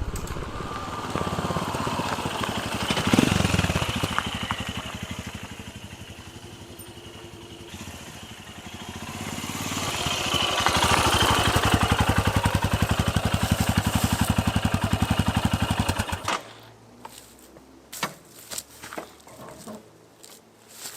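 Royal Enfield Himalayan's single-cylinder engine running through a Lextek aftermarket exhaust, getting louder, fading, then louder again before cutting off suddenly about 16 seconds in. A few light knocks follow in the quiet.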